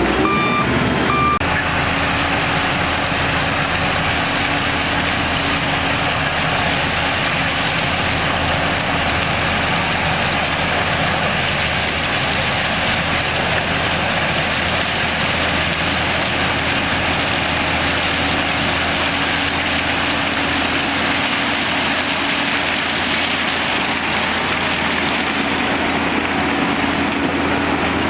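Bulldozer's diesel engine running steadily while working. A reversing alarm beeps a few times at the start.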